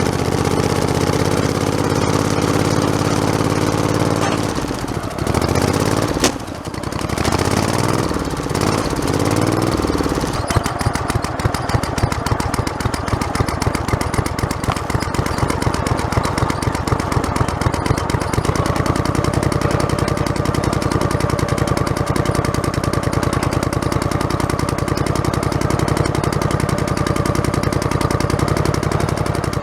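Modified lawn tractor's small engine running, heard from the front bumper; about four seconds in the revs drop and waver, and from about ten seconds in it runs at a lower, even speed with a close, steady chugging of firing pulses.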